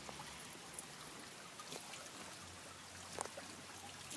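Rain falling: a faint, steady hiss with a few louder drops ticking now and then.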